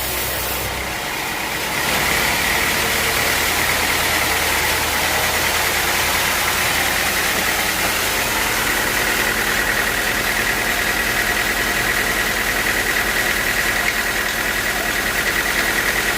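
Sawmill machinery running steadily; about two seconds in it grows louder and a steady high whine sets in.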